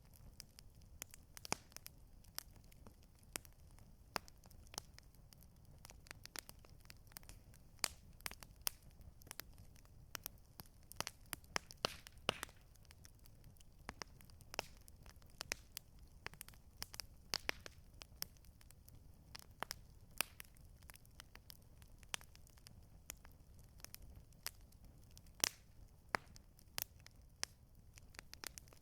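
Campfire crackling: irregular sharp pops and snaps, several a second, over a faint low rumble.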